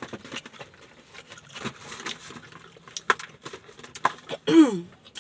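Close-up chewing and crunching of fried okra, with a few sharp crackling clicks. About four and a half seconds in comes a short vocal sound falling in pitch, the loudest moment.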